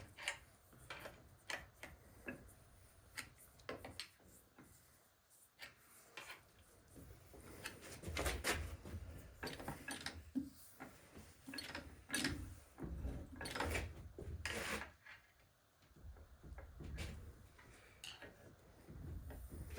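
Irregular clicks, knocks and rubbing as transmission shafts, bearings and tools are handled by hand. The sounds are busiest and loudest from about 8 to 15 seconds in.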